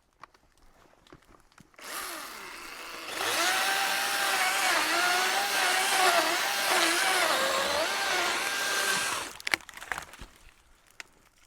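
Chainsaw engine running at high revs, pitch dipping and wavering as it cuts through a small tree. It comes in about two seconds in, gets louder a second later and cuts off about nine seconds in, followed by a few sharp knocks.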